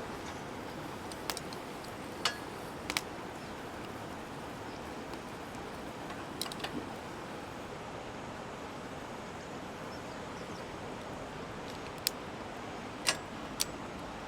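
Steady outdoor background noise with a few sharp clicks or taps scattered through it: one every second or so early on, then a cluster of three near the end.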